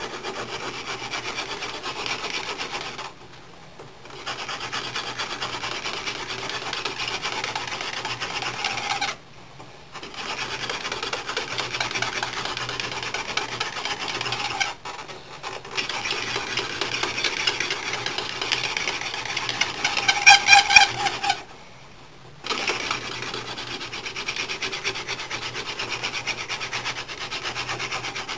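Wooden hand-drill spindle spun between the palms against a fireboard: a steady dry rubbing grind in runs of several seconds, broken by four short pauses, with a brief squeal about twenty seconds in. The spindle is being drilled to build up a friction-fire ember.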